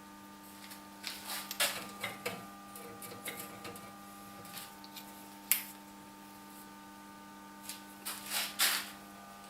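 Scattered clicks, light knocks and rustling scrapes of handling objects, with one sharp click about halfway through, over a steady electrical hum.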